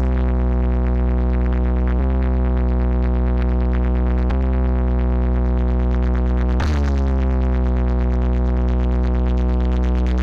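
Electronic music with a heavy synthesizer bass line, played loud through a four-bass, four-mid loudspeaker system during a speaker check. The sustained bass chord shifts every two seconds or so under a fast, even pulse.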